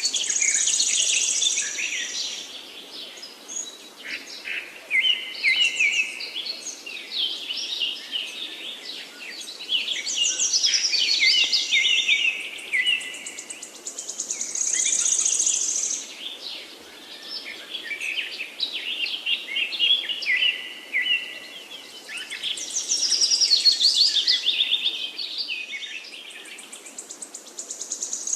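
Songbirds singing: a busy, continuous run of high chirps, whistles and quick trills, with the same passage seeming to come round about every 14 seconds.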